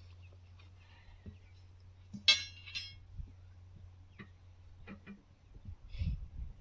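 A sharp metallic-sounding clink about two seconds in, with a fainter one just after it, over a steady low hum that stops about five seconds in.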